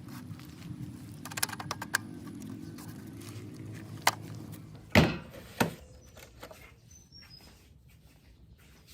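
A handful of sharp clicks and knocks, the loudest about five seconds in, over a low steady hum that dies away after about six seconds.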